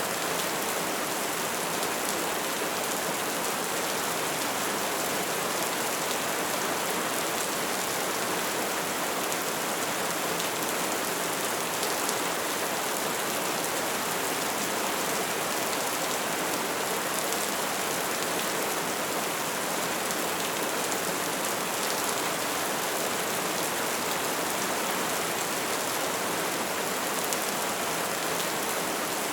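Bonfire burning: a steady hiss of flames with small crackles scattered through it.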